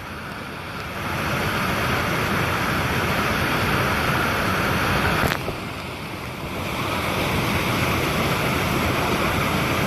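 Steady rush of falling water from a waterfall, with a single sharp click about five seconds in.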